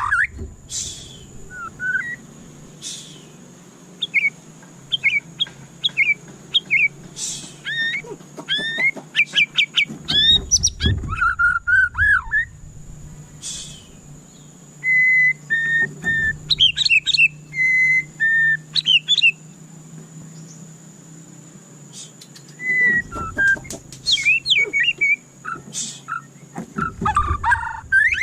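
White-rumped shama singing in phrases of varied whistled notes and quick chirps, separated by short pauses, with a longer pause a little past the middle.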